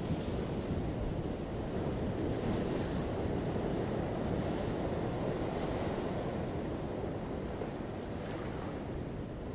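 Ocean surf breaking and washing on a shore, a continuous rumbling wash of water that swells in the middle and eases off toward the end.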